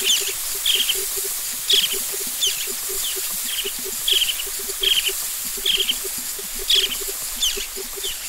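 Birds calling: short high chirps repeated about once or twice a second over a steady high hiss, with a quicker, lower pulsing call running underneath.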